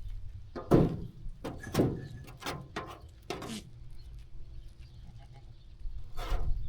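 Sheep bleating: several short bleats in quick succession in the first few seconds, then one more near the end.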